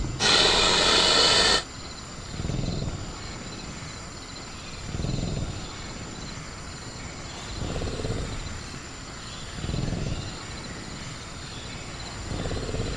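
Designed velociraptor creature sound effect: a loud burst about a second and a half long at the start, then slow low breaths or growls swelling every two to three seconds, over steady high insect chirring.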